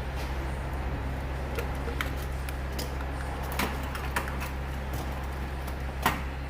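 Scattered light clicks and metallic knocks of hand tools being handled, over a steady low hum, with the sharpest knock near the end.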